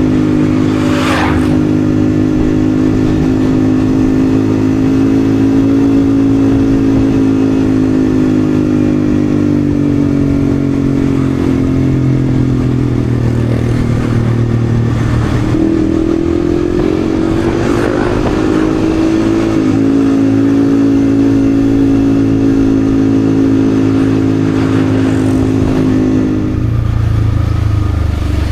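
Yamaha XSR155's single-cylinder engine running steadily at cruising speed. Its pitch rises and dips a little about halfway through and falls near the end as the bike slows, with a few brief whooshes of passing traffic or air.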